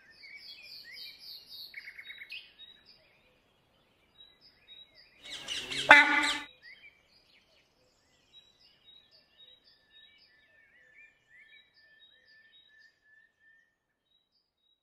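Wild birds chirping and calling in dry forest. There is a quick run of high chirps in the first few seconds, a single louder harsh call about six seconds in, and faint thin calls trailing on after.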